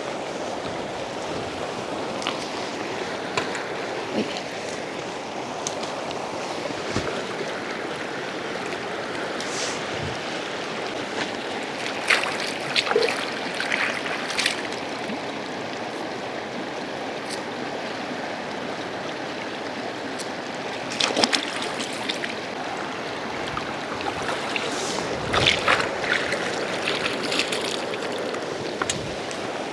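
Steady rushing water noise, with a few short clusters of light clicks and knocks.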